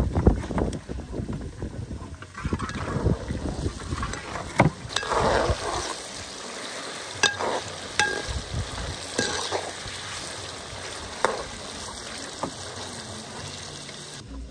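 Food frying in hot oil in a cooking pot with a steady sizzle, while a utensil stirs it and knocks sharply against the pot several times.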